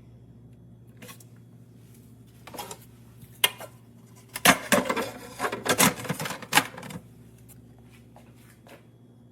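A run of sharp clicks and clattering, loudest from about halfway through for two to three seconds, over a steady low hum that stops just after the end.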